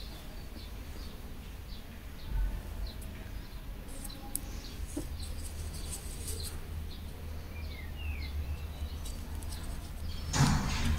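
Faint bird chirps, short scattered calls, over a steady low hum.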